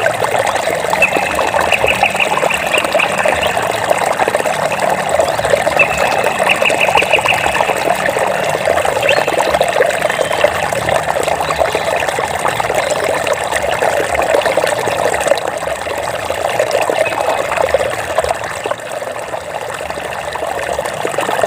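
Water trickling and bubbling steadily, as a small stream running over stones. Twice a short, rapid high trill sounds over it, about a second in and again about six seconds in.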